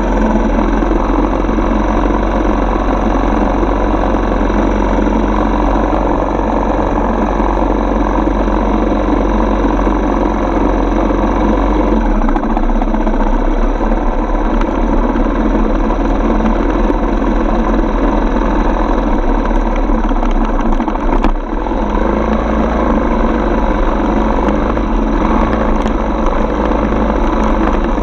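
Single-cylinder four-stroke dirt bike engine running steadily while riding, with a brief dip in level about 21 seconds in.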